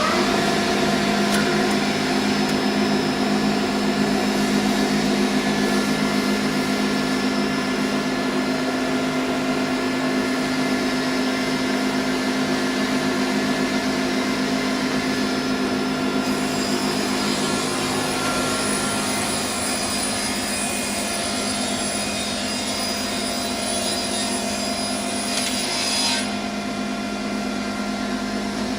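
Multi-blade disc rip saw with a 15 kW motor running steadily, with a steady hum and whine, having just reached full speed after start-up. About halfway through a higher hiss joins, ending with a short swell a few seconds before the end.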